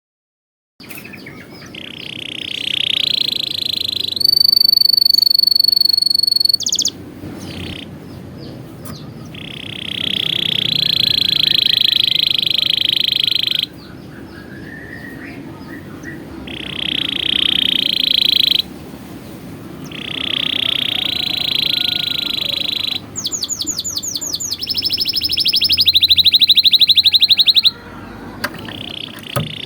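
Domestic canary singing in long phrases: buzzy rolls held for a few seconds at a time with short pauses between, a clear high whistled note, and near the end a fast trill of rapidly repeated notes.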